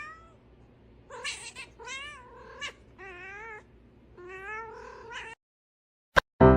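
Domestic cat meowing and yowling, a string of about seven drawn-out calls that waver and bend in pitch. Near the end a click and the start of keyboard music.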